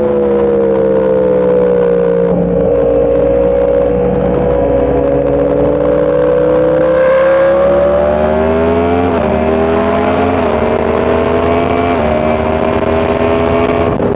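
Sport motorcycle engine under hard acceleration, its note climbing steadily and then dipping briefly three times in the second half as it shifts up through the gears, over a low rush of wind.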